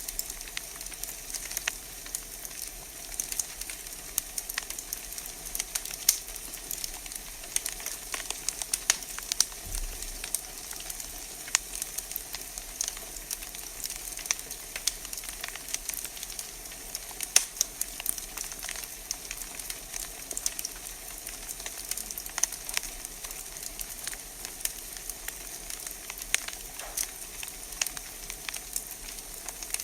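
Wood fire burning in a fireplace, crackling steadily with frequent sharp irregular pops and snaps over a soft hiss.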